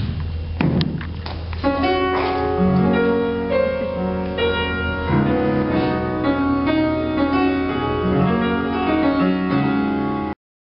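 A few knocks, then piano music played from about two seconds in, with chords under a melody; it cuts off abruptly near the end.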